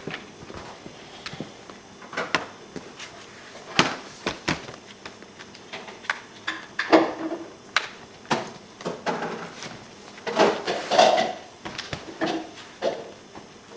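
Irregular clicks, taps and knocks of a hard-plastic laptop case and its parts being handled, about a dozen spread through, some with a short hollow knock.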